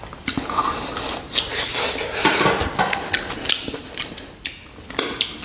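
Close-miked chewing of mutton shank meat: irregular wet smacking and clicking mouth sounds.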